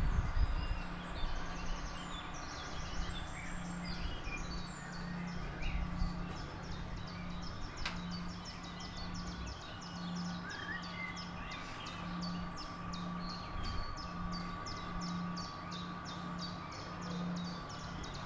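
Forest birds singing, with one bird repeating a short high chirp about three times a second through the second half.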